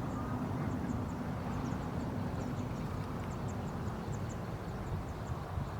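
Steady low rumble of a passing road vehicle's engine, with faint short high chirps repeating in the background.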